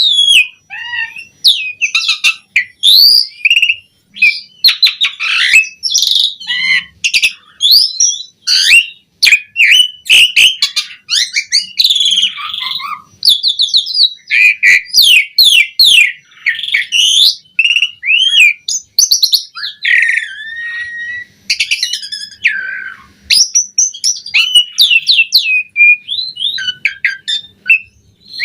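Asian pied starling (jalak suren) singing a long, varied song without pause: whistles that rise and fall, quick runs of notes and sharp clicks.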